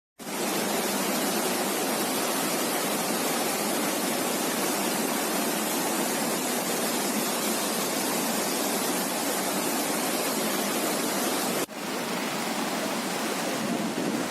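Swollen river in flood, its floodwater rushing in a loud, steady torrent. About three-quarters of the way through it breaks off for an instant and picks up again slightly duller.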